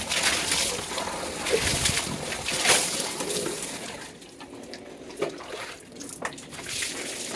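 Water splashing and trickling over a motorcycle as it is washed, quieter after about four seconds, with a few sharp knocks.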